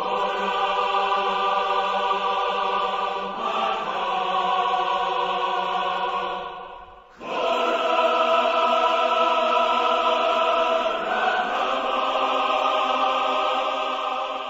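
Choir music: voices holding long, steady chords that change every few seconds, breaking off about seven seconds in and then starting again on a new chord.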